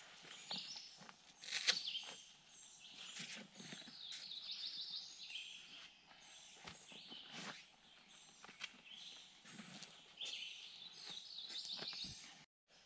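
Several wild birds singing and chirping outdoors, with quick repeated trills, over a faint background hiss and a few short clicks.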